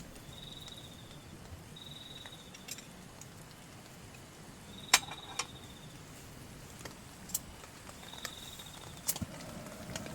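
An insect chirping in short, pulsed trills, four times, with a gap in the middle. Several sharp ticks or taps land among them, the loudest about five seconds in, over a faint steady hiss.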